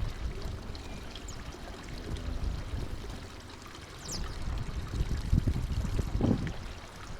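Outdoor ambience of a steady rush like running water, with a low rumble that swells for a second or two past the middle, and a few faint, short, high chirps from small birds.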